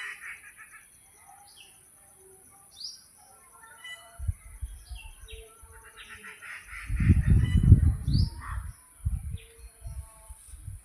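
Small birds chirping outdoors, with short falling chirps and a couple of fast chattering trills. A steady high hiss runs underneath, and a burst of low rumbling thumps comes about seven seconds in.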